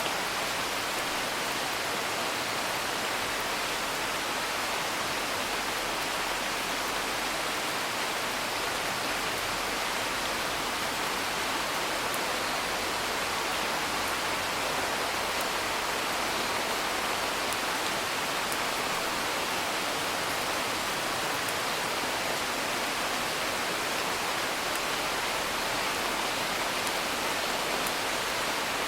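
Steady, even rain noise with a few faint, scattered crackles from a wood fire.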